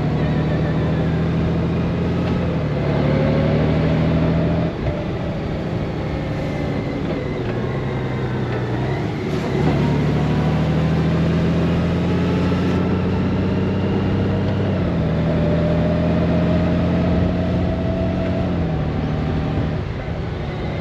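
Honda Gold Wing motorcycle engine running under way, its pitch holding level and then stepping down or up abruptly several times.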